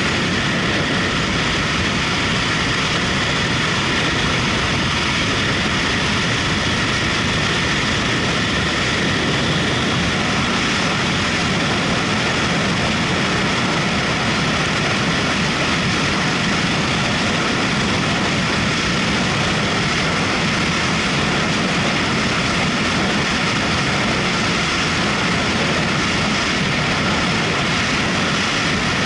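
Motorcycle under way at a steady speed: engine running with a steady rush of wind noise on the microphone.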